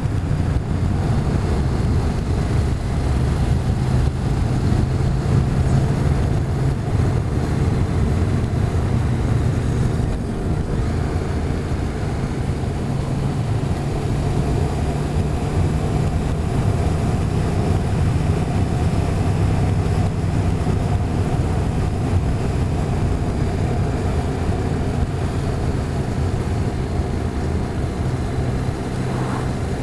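Motorcycle engine running steadily under way, a low even drone with little change in pitch, over a rushing haze of road and wind noise.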